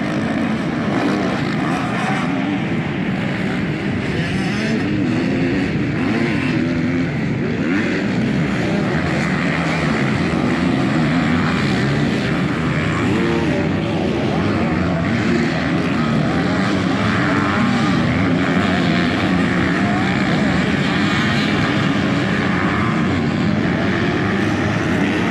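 Several motocross bike engines running together, each revving up and down as the throttle opens and closes, overlapping into a steady loud mix.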